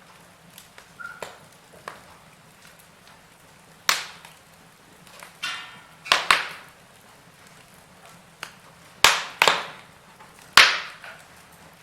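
Wood fire in a fireplace crackling, with several sharp pops of burning wood over a faint steady hiss. The loudest pops come in the second half.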